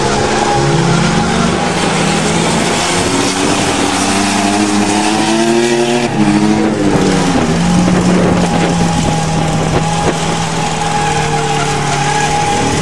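Engines of a motorhome and a pickup truck revving and running hard as they drive donuts, the pitch climbing and falling over a few seconds and then holding steady for the last few seconds, with a steady high whine throughout.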